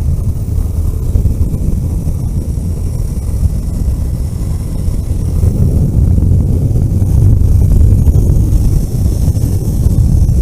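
Vehicle driving along a road: a steady, loud low rumble of engine and road noise, with a faint high hiss above it.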